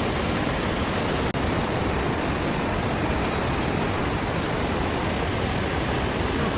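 Waterfall running with a steady, loud rush of falling water, broken by a momentary dropout about a second in.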